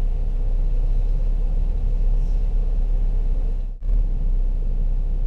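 Steady low rumble of a Ford car's engine running, heard from inside the cabin during a slow parking manoeuvre. The sound cuts out for a moment a little before four seconds in.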